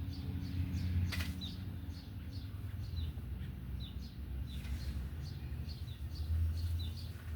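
A small bird chirping over and over, short falling notes two or three times a second, over a steady low rumble, with one sharp rustle about a second in.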